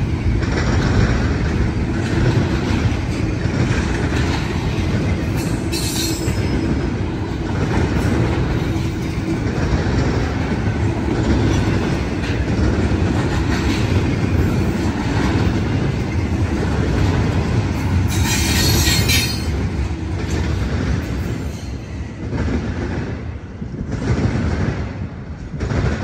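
Intermodal freight train cars rolling past, their wheels clattering steadily on the rails. Two brief high-pitched wheel screeches come about 6 and 18 seconds in.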